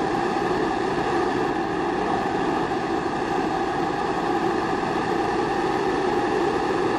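Pressurised kerosene (primus) stove burning steadily: a constant rushing flame noise with a few held resonant tones.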